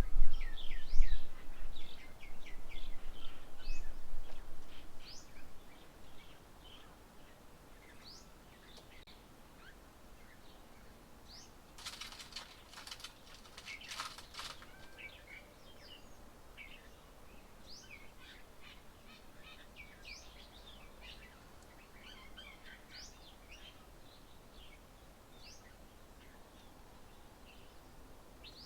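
Small birds chirping and calling in quick, short, high notes throughout. A low rumble fades out over the first few seconds, and a brief rustling burst comes about halfway through.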